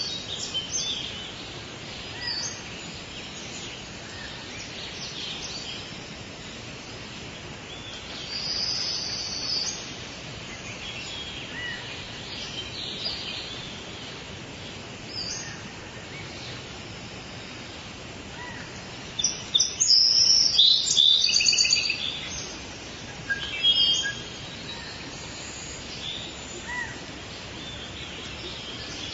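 Forest birds chirping and calling at intervals over a steady background hiss of ambience, with a louder burst of rapid chirps about two-thirds of the way through.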